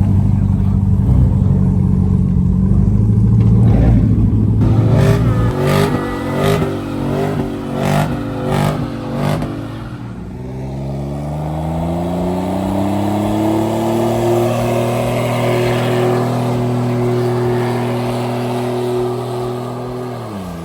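A car engine revving hard. It holds a steady loud note for a few seconds, then blips sharply about every two-thirds of a second. It then climbs in pitch, holds high and steady for several seconds, and falls away near the end.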